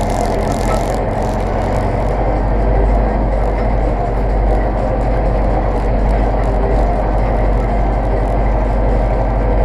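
Zetor tractor diesel engine running steadily with a deep, even drone.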